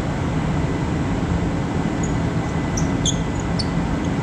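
1974 Mack R Model truck's diesel engine idling with a steady low rumble, with a few short high squeaks in the middle.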